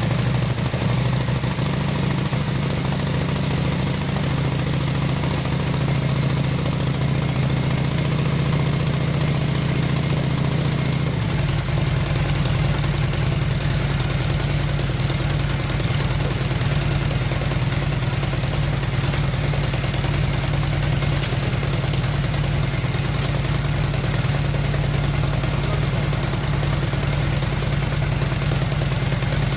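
Honda Shadow VT 600's V-twin engine idling steadily through its refitted exhaust. Its low tone changes slightly about eleven seconds in.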